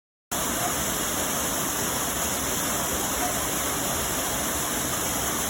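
Steady rush of falling or running water, cut in abruptly just after the start and cut off abruptly at the end.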